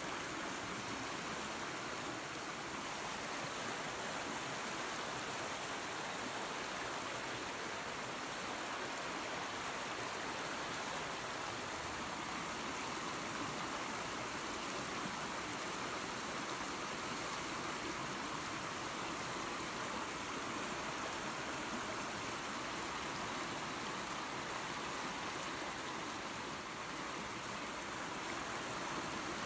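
Small waterfall and creek running water: a steady, even rush with no breaks.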